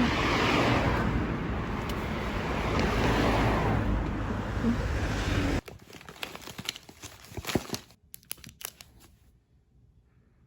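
A steady rushing noise that cuts off suddenly about five and a half seconds in, followed by a few seconds of scattered sharp crackles and clicks.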